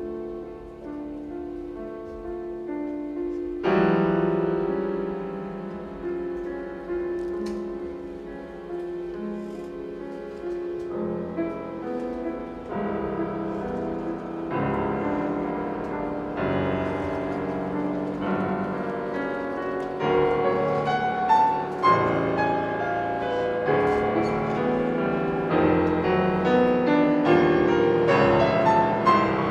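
Piano playing with a chamber string orchestra in a live classical performance. A louder full entry comes about four seconds in, and the music builds in loudness toward the end.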